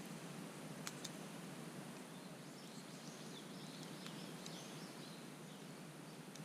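Wood campfire crackling, with two sharp pops about a second in, while a songbird sings a short warbling phrase in the middle.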